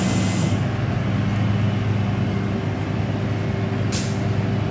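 Tow truck's engine running steadily with a low hum, and one short hiss about four seconds in.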